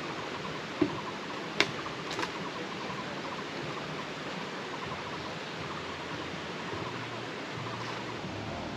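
Steady rushing noise with three short sharp clicks or knocks in the first few seconds.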